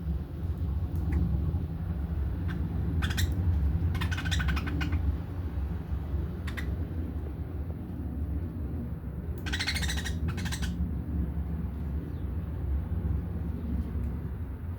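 Budgerigars chattering and squawking in short bursts: one about three seconds in, another a second later, and a longer one around ten seconds. A steady low rumble runs underneath.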